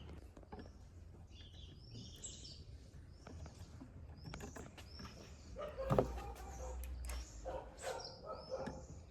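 Small birds chirping repeatedly, over a low steady hum, with scattered light clicks and a louder knock about six seconds in.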